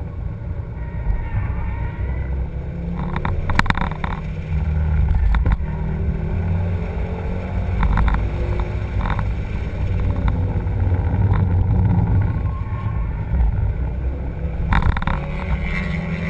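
Car on the move with a steady low rumble, carrying faint wavering squeal tones from the brakes and a few short clicks.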